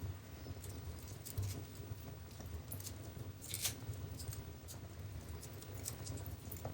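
Wood fire burning in a fireplace: a low steady rumble of flames with scattered small crackles and pops, one sharper crackle about three and a half seconds in.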